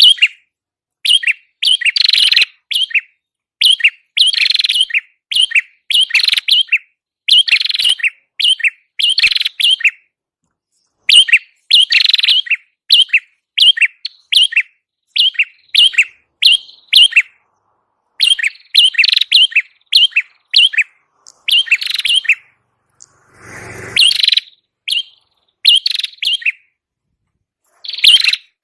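Song of the prenjak kepala merah, a small Indonesian warbler-type bird, in a masteran recording: repeated bursts of sharp, high chirps, each burst about half a second long with short gaps between. A brief rushing noise comes about three-quarters of the way through.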